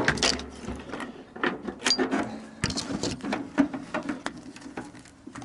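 Irregular metallic clicks, knocks and rattles of hand tools working on parts inside a microwave's sheet-metal casing during disassembly.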